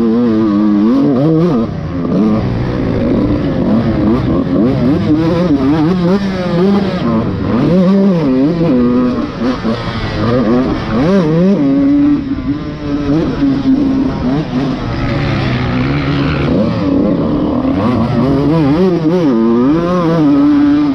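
Dirt bike engine being ridden hard, its pitch climbing and dropping over and over as the throttle opens and closes.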